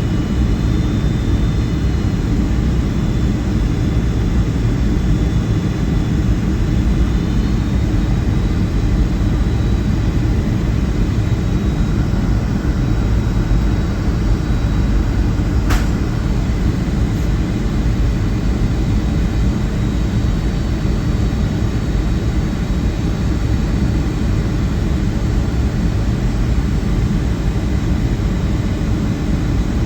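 Steady cabin noise of a Boeing 757-200 airliner in flight: an even engine and airflow rumble, with one sharp click about halfway through.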